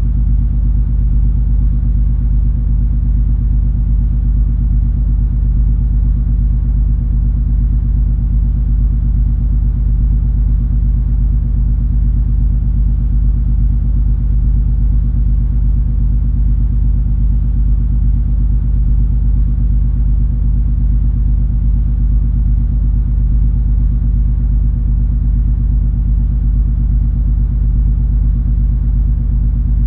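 The cruise ferry MS Color Magic under way, its engines giving a steady, unchanging low hum over a deep rumble.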